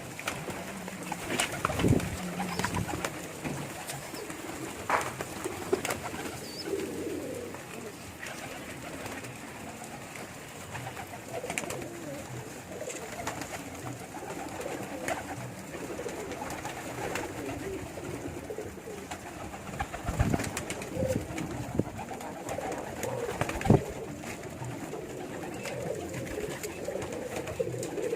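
Domestic pigeons cooing in a low, continuous murmur, with scattered sharp clicks and knocks; the loudest knock comes near the end.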